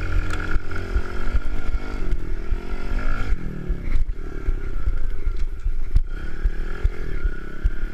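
Kawasaki KLX110 pit bike's small four-stroke single-cylinder engine revving up and down under riding, its pitch climbing about three seconds in and dropping sharply a moment later. Frequent low thumps run underneath.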